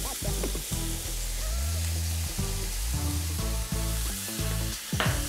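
Vegetables frying in sesame oil in a steel pan, a steady sizzle, over background music.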